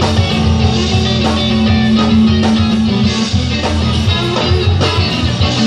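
Guitar-led rock music with a steady beat and a long held low note.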